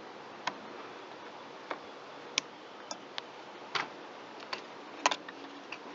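Irregular light clicks and taps of hand tools and small chainsaw parts being handled while the oil pump is removed, with the loudest cluster about five seconds in.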